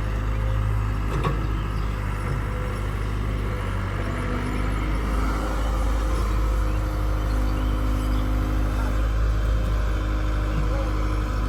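Heavy diesel engine running steadily with a deep, even hum, with a faint knock about a second in.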